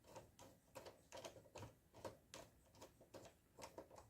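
Faint, irregular small clicks and ticks, about three a second, of a screwdriver driving a screw into a desktop PC's metal drive mounting.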